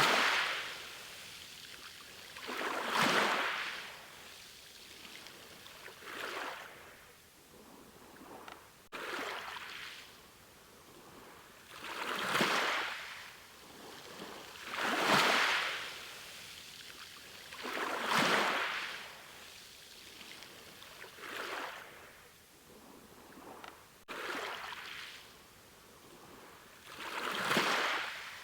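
Ocean waves breaking and washing in, one swell of rushing hiss about every three seconds, each rising and falling away.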